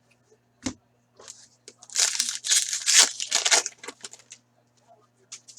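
A 2015-16 Upper Deck Series 1 hockey card pack wrapper being torn open and crinkled, with a short click about half a second in, then about two seconds of irregular rustling and tearing.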